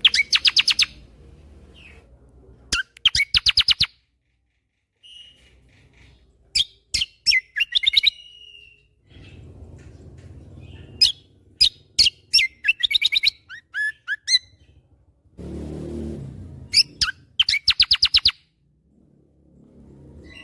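Kecial kombo songbird singing in short bursts of rapid, sharp staccato notes, the 'tembakan' (shot) phrases, repeated about eight times with pauses between.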